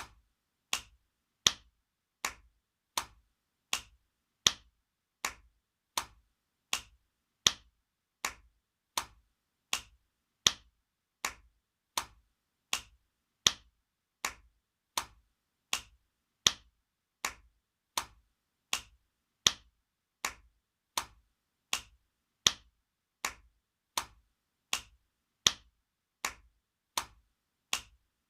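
Spanking sound effect: sharp slaps of a hand on skin, repeated in a steady loop about every three-quarters of a second, with every fourth slap louder.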